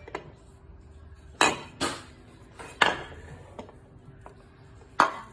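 Four sharp metallic knocks and clinks, the first three between about one and a half and three seconds in and the last near the end, each ringing briefly: a metal object being handled and knocked against a hard surface.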